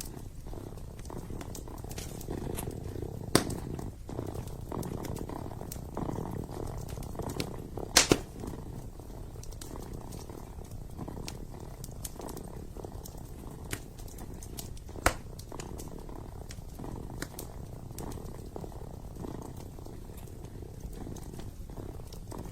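A kitten purring steadily close up, the purr swelling and easing with each breath, over the crackle of a wood fire in a fireplace, with a few louder pops.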